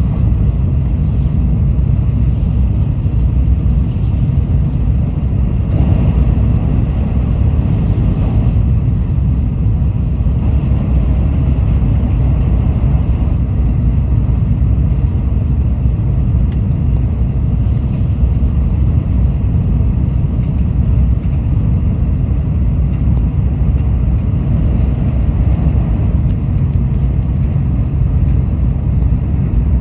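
Tokaido Shinkansen bullet train running, a steady low rumble.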